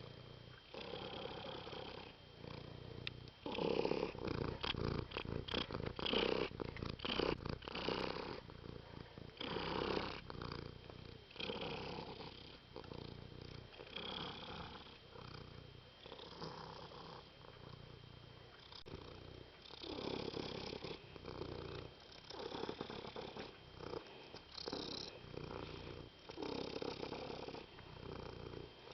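Domestic cat purring close up, a steady rumble that swells and eases with each breath. A run of clicks and rustles comes a few seconds in.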